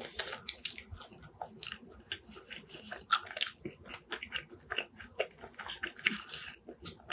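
A person chewing a mouthful of chicken and fries close to the microphone, with many small wet mouth clicks. Twice, about three and six seconds in, a fork scrapes through fries in a takeout container.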